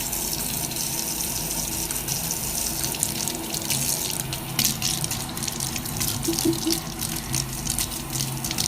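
Water running steadily, with small splashes and patters.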